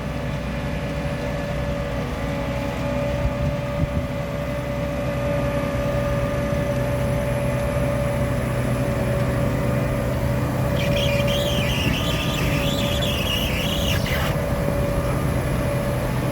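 Grimme potato harvester and its engine running steadily, with a steady hum. About eleven seconds in, a higher hissing noise joins for roughly three seconds.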